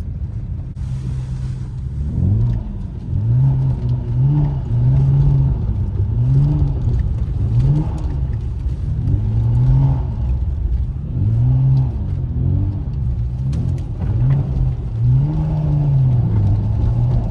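BMW 335i's inline-six engine revving up and down over and over, roughly once every second or so, as the throttle is worked while the car slides with little traction on snow.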